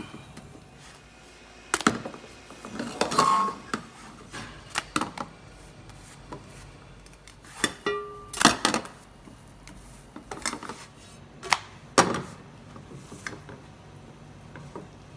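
Intermittent kitchen clatter from pancake-making utensils: sharp clicks and knocks with a few short scraping spells, as of a spatula and utensils on a griddle and plates, and a couple of brief squeaks.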